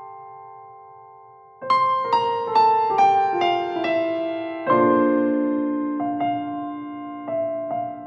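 Background piano music: a slow, gentle piece. A chord fades out, then about one and a half seconds in a falling run of notes is played, followed by a few soft chords.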